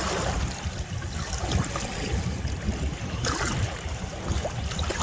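Seaside ambience: waves washing on the shore, with wind rumbling on the microphone.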